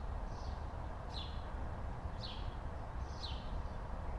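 A bird calling repeatedly outdoors, short high down-slurred notes about once a second, over a steady low background rumble.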